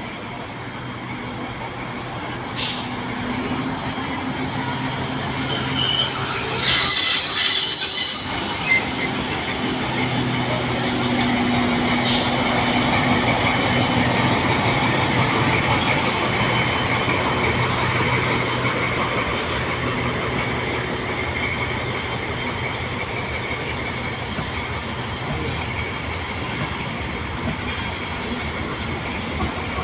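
Historic train pulling out and rolling past at low speed: a steady hum as the locomotive goes by, then the continuous rumble of the vintage coaches passing. A loud, shrill high-pitched squeal comes about seven seconds in, with a few sharp clicks along the way.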